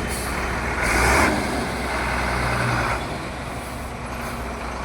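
Truck's diesel engine running steadily, with a loud hiss of air from the air brakes releasing about a second in that dies away about three seconds in.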